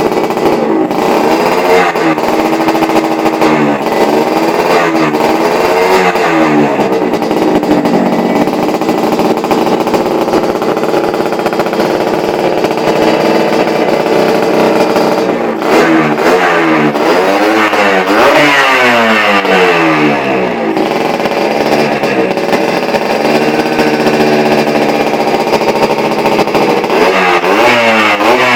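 Motorcycle with an underbelly-mounted exhaust running and being revved, the exhaust note rising and falling with repeated throttle blips in three spells, with steady running between.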